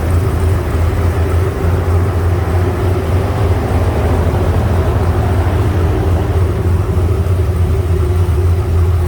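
Turbocharged LS3 V8 in a Chevrolet Camaro, with a Summit 8707 cam and Wicked Flow Kamakaze mufflers, idling with a steady, deep, uneven beat through the exhaust.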